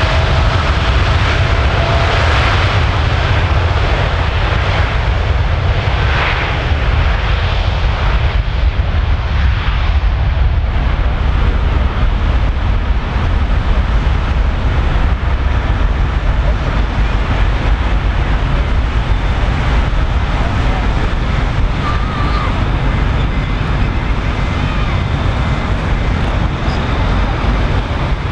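Boeing 787-8's twin GE GEnx jet engines at high thrust on takeoff: a steady, loud roar with a deep rumble underneath.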